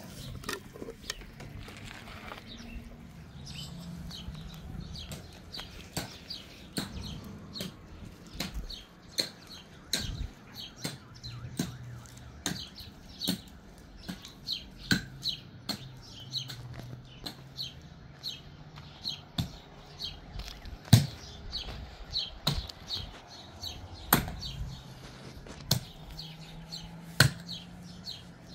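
Small birds chirping over and over, with scattered sharp knocks from some work such as chopping or tapping, the loudest about 21 and 24 seconds in.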